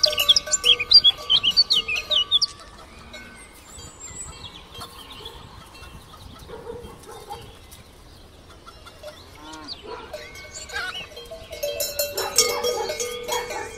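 Cowbells ringing on grazing cows, with many short bird chirps over them. Busiest in the first two seconds and again near the end, quieter in between.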